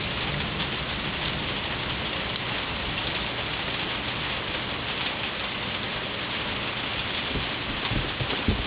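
Steady rain falling in a thunderstorm, an even hiss, with a few low knocks near the end.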